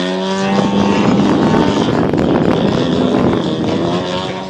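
The gasoline engine of a large-scale RC model airplane running hard, its pitch gliding up and then holding steady, with wind buffeting the microphone.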